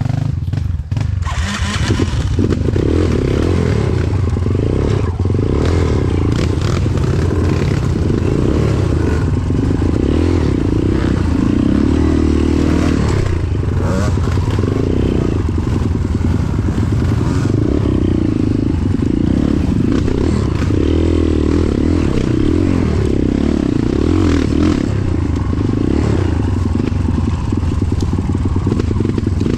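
Motorcycle engine running while being ridden, its pitch rising and falling as the revs change, with rattling and scraping throughout.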